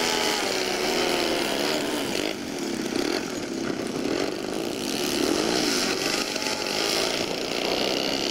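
Model-airplane glow engines running together with a high buzz, their pitch rising and falling in overlapping sweeps as the planes throttle up and down and taxi past.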